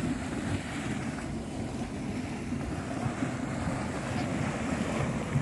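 A hot spring in a mud volcano area bubbling and churning with a steady rushing, sloshing noise, with wind buffeting the microphone.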